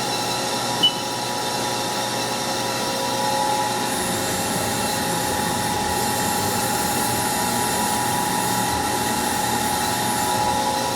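Haas SL20T CNC lathe spindle running at a steady speed: a constant machine hum with several steady tones, and a short high beep about a second in.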